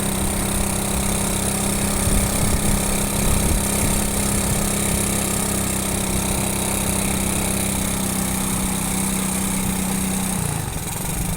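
Motorcycle engine running at a steady speed while riding, its note holding level, then dropping slightly lower about ten seconds in as it slows.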